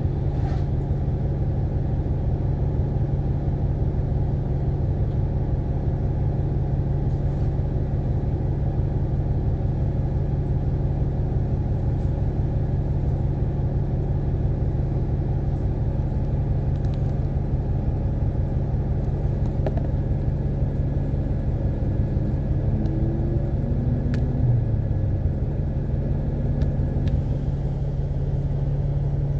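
Inside a KMB Alexander Dennis Enviro500 MMC double-decker bus on the move: a steady engine drone and road rumble, with a faint rising whine about two-thirds of the way through as the bus picks up speed.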